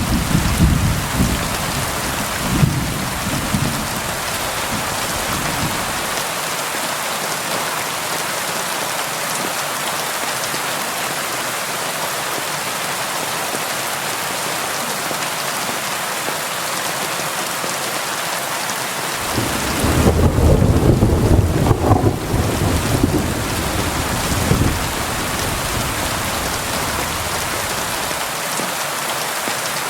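Steady rain pattering on window glass, a dense even hiss. Low rolls of thunder rumble through the first few seconds and die away. A louder roll of thunder comes about twenty seconds in.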